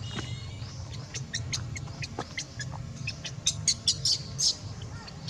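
Rapid, short high-pitched animal chirps, growing busier and louder about three seconds in, over a steady low background hum.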